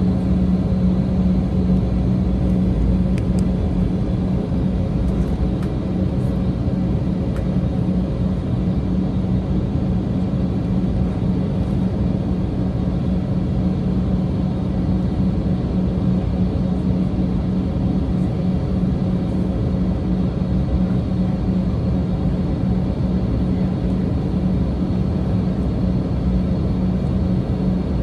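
Steady cabin noise inside an Embraer E190 airliner: a constant low rumble with a steady hum, the engines holding an even low power with no rise for a takeoff run.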